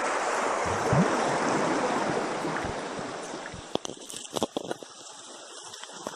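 Running water of a stream swollen by rain, a steady rushing that fades out after about three seconds. Scattered clicks and knocks follow.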